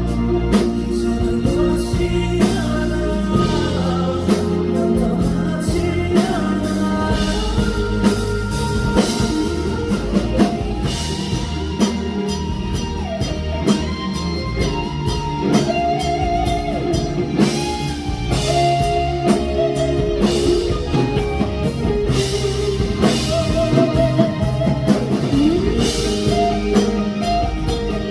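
Live band music with drum kit and guitar, with a singing voice on top.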